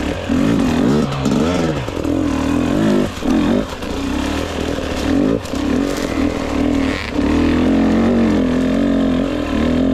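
2022 GasGas EX 250 two-stroke enduro motorcycle engine under riding load, revs rising and falling with the throttle and chopping off briefly a few times.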